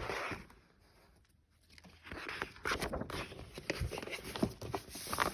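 Soft paper rustling with small taps and clicks: a picture book being handled and its pages turned. There is a knock at the start and a brief hush about a second in.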